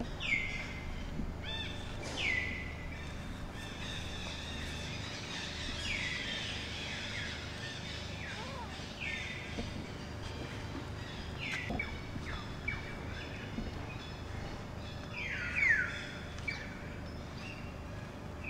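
Birds calling over and over, about once a second: short calls that drop quickly in pitch and then level off. Under them runs a steady low rumble of background noise, and the loudest calls come about three-quarters of the way in.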